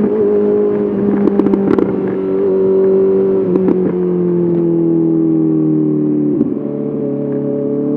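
Honda CBR 650R inline-four through an SC-Project SC1R exhaust, cruising at a steady engine speed. The pitch sags slightly, dips briefly about six seconds in, then climbs again near the end. A few short crackles come about a second in and again near the middle.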